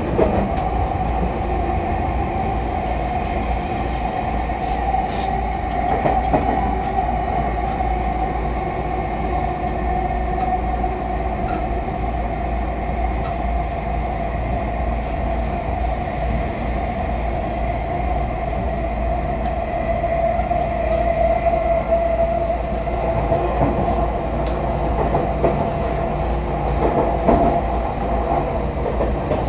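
A JR East E231-series commuter train running, heard from inside the car. There is a steady rumble of wheels on rail, a steady whine that drifts slightly lower in pitch, and scattered clicks.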